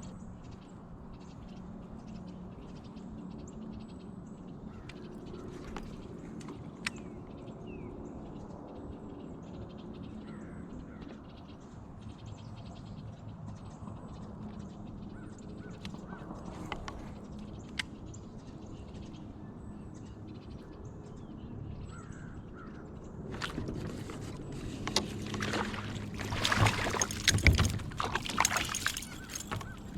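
Outdoor lake ambience with birds calling over a low steady hum. In the last several seconds, louder rustling and clattering close to the microphone.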